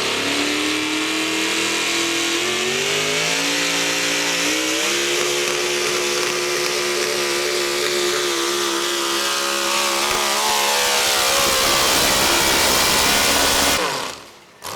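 Modified 4x4 pulling truck's engine at full throttle dragging the sled down the track, its pitch climbing over the first few seconds and then holding high. The sound cuts off abruptly near the end.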